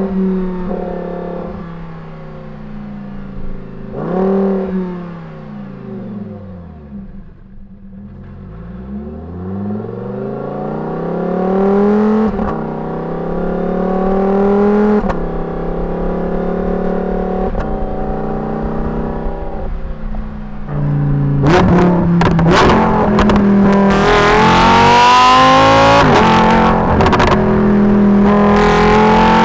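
Lamborghini Huracán EVO's naturally aspirated 5.2-litre V10 exhaust, heard right at the tailpipe, wicked loud. After a couple of short blips the revs fall away, then climb again in steps broken by gear changes. About two-thirds of the way through it opens up into a much louder, harsher pull with rising pitch.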